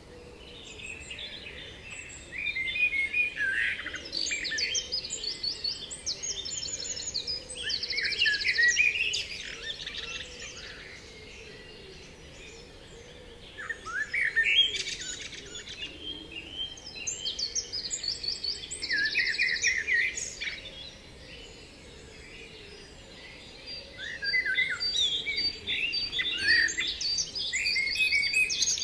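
Songbirds singing quick chirping phrases and rapid high trills, in three bouts separated by gaps of a few seconds.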